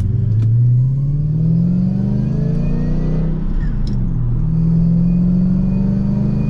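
Lexus GS400's V8 heard from inside the cabin, pulling hard with its pitch climbing for about three seconds. The pitch drops at an upshift of the manual-swapped AR5 gearbox, then the engine starts climbing again in the next gear.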